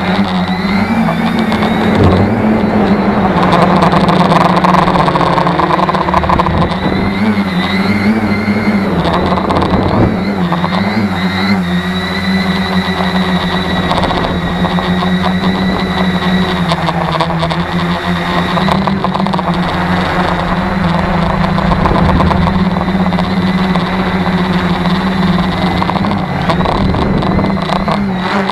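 Tarot 650 quadcopter's electric motors and propellers droning steadily, their pitch wavering slightly, with wind noise from strong gusts over it.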